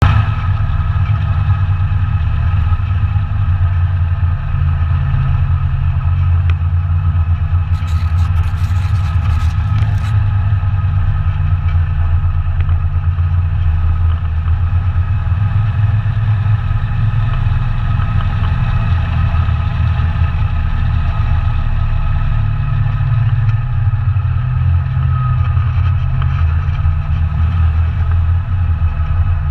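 ATV engine running steadily with a deep drone. A short patch of rattling clicks comes about eight seconds in.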